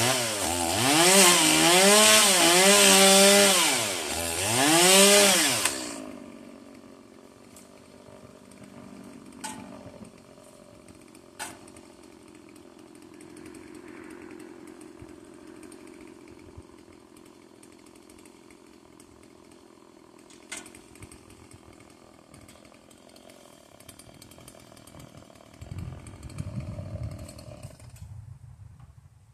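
Stihl chainsaw's two-stroke engine revving up and down about four times, then dropping off suddenly about six seconds in. After that there is only a faint low hum with a few sharp knocks.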